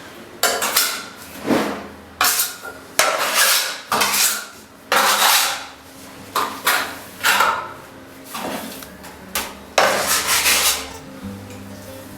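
Steel plastering trowel working undercoat plaster onto a wall: a dozen or more short scraping strokes, each starting sharply and fading, at an uneven pace.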